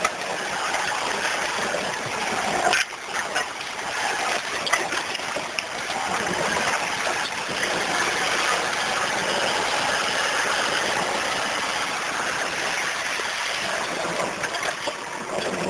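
A vehicle wading through water on a flooded dirt road, with a steady rush and splash of water around it and a single knock about three seconds in.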